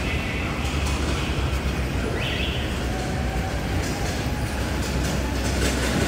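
Steady low rumble of wind buffeting the microphone over city street traffic noise.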